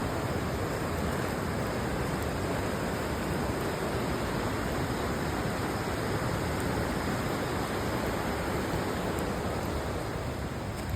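River water rushing: a steady, even wash of flowing water.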